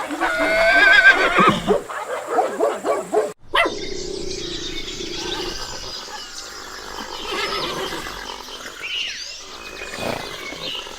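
Horse whinnying: a loud, high, wavering call in the first two seconds. After a sudden cut, a quieter steady background with a few faint high calls.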